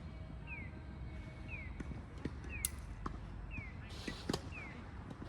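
Tennis being played: a sharp racket-on-ball hit about two and a half seconds in, further knocks and light footsteps, and a noisy scuff around four seconds. Behind it a short falling chirp repeats about once a second.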